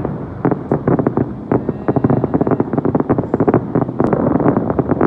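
Fireworks going off in rapid succession: a dense run of quick bangs and crackles.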